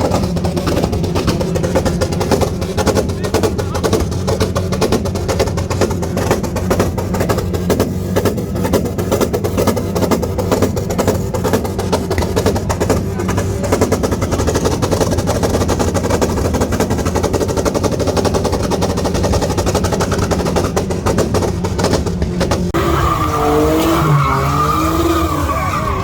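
Car engine running loudly and steadily, with a dense rough crackle over it. In the last few seconds a voice-like pitched sound bends up and down.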